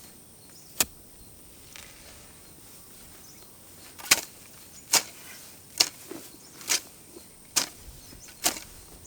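Hand tool striking the ground, clearing grass from a patch of soil: a single strike, then a steady run of six strokes about a second apart.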